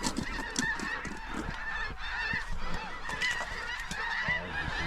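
A large flock of snow geese calling all at once, a dense chorus of many overlapping high honks.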